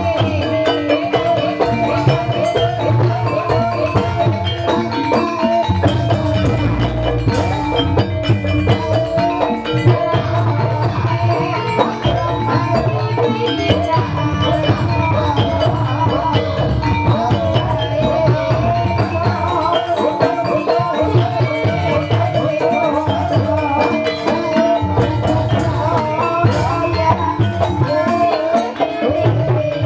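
Live Banyumas ebeg accompaniment music: a gamelan-style ensemble of tuned mallet percussion with drums, playing continuously.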